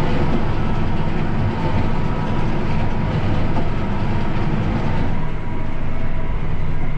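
Tractor engine running steadily with a Hesston hay baler working behind it, heard from inside the tractor cab.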